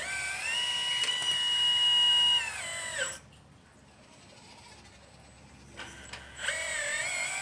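Electric motor whine from a 1/12-scale Liebherr 954 RC excavator: the pitch rises, holds high, then falls away and stops about three seconds in. The whine starts again near the end, swinging up and down in pitch as the controls are worked.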